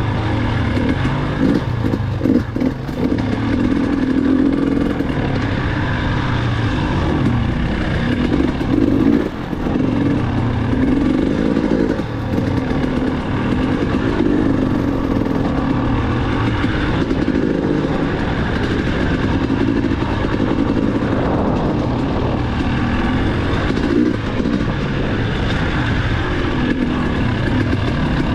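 Dirt bike engine running under way, its pitch rising and falling as the throttle opens and closes, with a few knocks about two seconds in.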